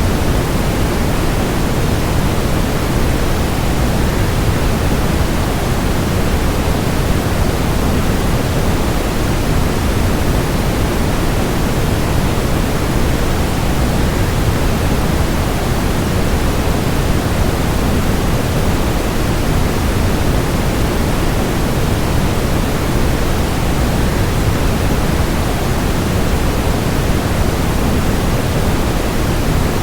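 A waterfall's rush blended with white noise: a steady, unchanging hiss-and-rush, heavier in the low end than the high.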